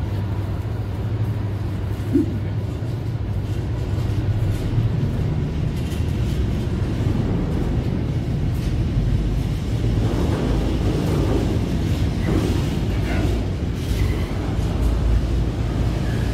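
Container wagons of a freight train rolling past at a steady pace: a continuous low rumble of wheels on rail, with a single sharp knock about two seconds in.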